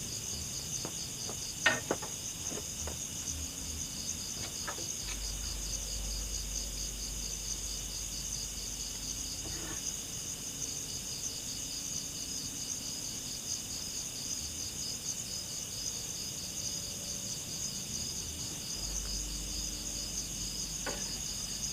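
Steady chorus of forest insects such as crickets, a high, finely pulsing trill. A sharp knock sounds about two seconds in, the loudest moment, and a few fainter clicks follow.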